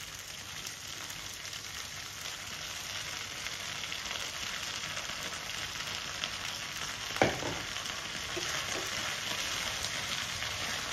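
Smoked pork and raw potato slices sizzling as they fry in a pan, growing slightly louder, with a wooden spatula stirring them near the end. A single sharp knock comes about two-thirds of the way through.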